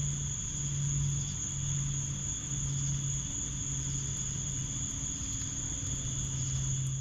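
Crickets trilling in one continuous high tone, with a low hum that swells about once a second and a few faint ticks underneath.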